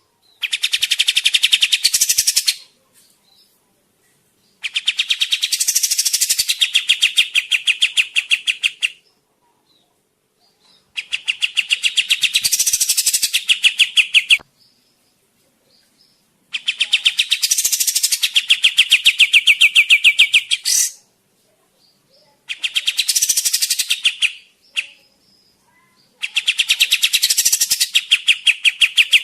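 Kapas tembak bulbul's fast chattering call: six bouts of rapidly repeated high notes, about ten a second, each bout lasting two to four seconds and separated by short pauses. It is a recording of the kind played as a lure or as a model song for caged birds.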